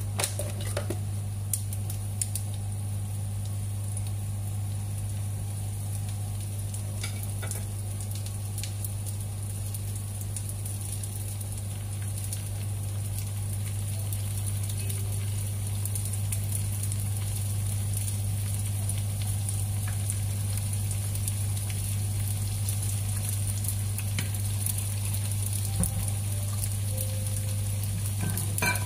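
Potato-corn-cheese dumplings frying in shallow oil in a pan, sizzling steadily with scattered sharp pops, over a steady low hum.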